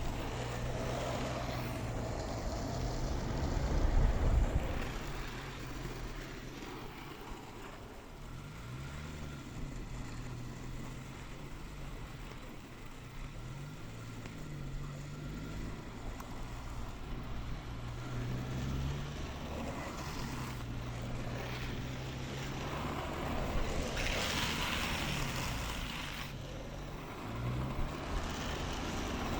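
Downhill longboard wheels rolling fast on asphalt with wind rushing over the microphone, under a low drone that rises and falls in pitch. Louder hissing stretches come a few seconds in and again about three-quarters of the way through, typical of the urethane wheels sliding on the pavement.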